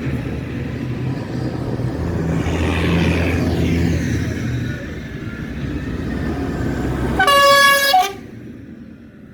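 Engines of passing vehicles rumbling, swelling louder about two seconds in, then a vehicle horn sounds once for just under a second near the end, loud and steady in pitch.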